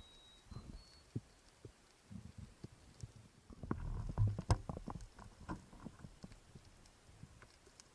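Unidentified underwater sound: scattered sharp clicks and low knocks, rising to a dense cluster of louder low knocks and rumbling with a brief low hum about halfway through. The uploader wonders whether it comes from a large marine mammal.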